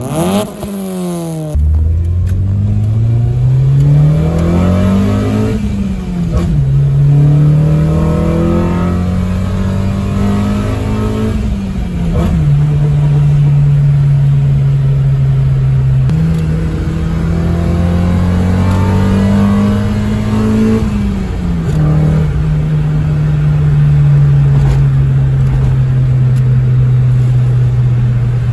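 Toyota Corolla AE111's 1.6-litre 4A-FE four-cylinder heard through its exhaust before the upgrade, which has only an aftermarket back box. The car accelerates with the engine heard from inside the cabin: the note climbs with the revs, drops at gear changes about 5, 12 and 21 seconds in, and holds steady while cruising. It has a zingy tone that dies out as the revs go higher. It opens with revs falling away at the tailpipe of the parked car.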